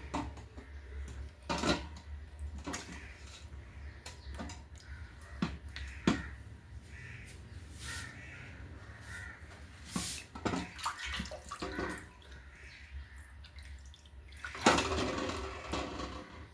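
Water splashing and sloshing in a basin, with scattered short knocks and splashes of handling, and a longer, louder splash about fifteen seconds in.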